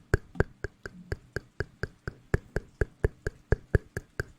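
An even, steady train of sharp clicks or taps, about four a second, with a faint low voice underneath.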